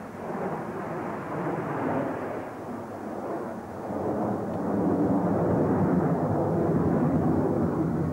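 Formation of BAe Hawk jet trainers flying past, a steady jet engine rush that swells louder about four seconds in.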